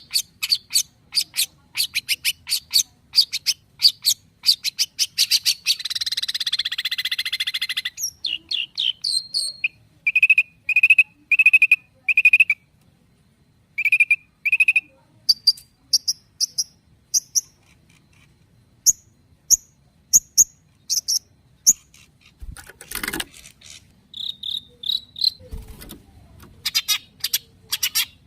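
Long-tailed shrike (cendet) singing a varied, mimicking song: quick runs of sharp ticks, a harsh rasping churr, then a string of clear whistled notes and higher chirps.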